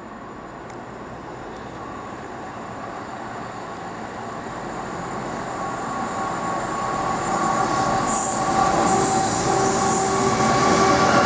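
A freight train approaching at speed on the rails, growing steadily louder. Steady high tones come in as it nears, and a sharp high hiss or squeal joins about eight seconds in.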